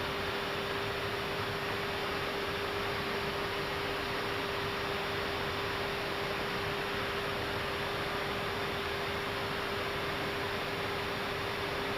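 Steady cockpit noise of an Airbus A319 in flight: an even rush of airflow and air conditioning with a constant mid-pitched hum underneath.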